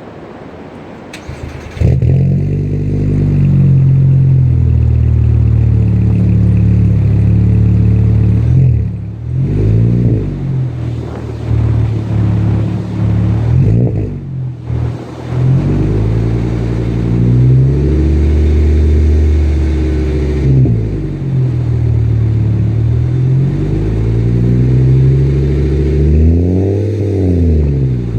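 2008 VW Jetta's 2.5-litre inline-five exhaust with both mufflers removed, leaving only the catalytic converter and two resonators. The engine cranks and catches about two seconds in with a rev flare, then idles loudly. It is blipped into several short revs that rise and fall back to idle.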